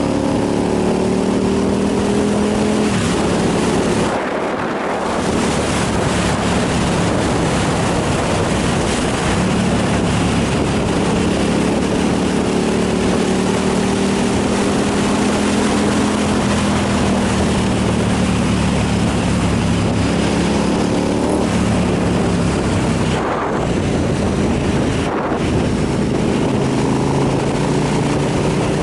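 Motorcycle engine running at road speed, its note slowly rising and falling, with wind noise on the microphone. The engine drops away briefly about four seconds in and twice more near the end, as on gear changes or easing off the throttle.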